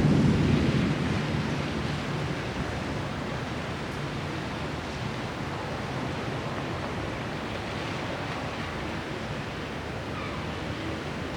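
Heavy rain falling steadily as a dense hiss. A low rumble swells at the start and dies away over about two seconds.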